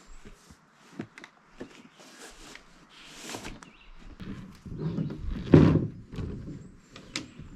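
Footsteps and rustling with scattered knocks and bumps, and one heavy thud about five and a half seconds in.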